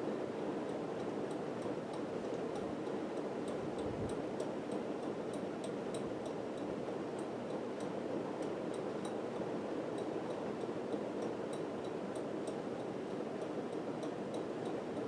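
1980s Homestead WhisperFan II ceiling fan running, a steady whir with faint, irregular high ticks several times a second.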